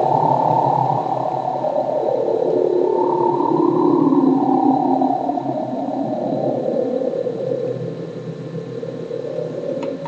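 Korg DW8000 synthesizer sounding a strange, atmospheric noise patch: a rushing band of noise whose pitch drifts and swirls, which the owner believes is made by modulating noise from the oscillators. It cuts off with a click near the end.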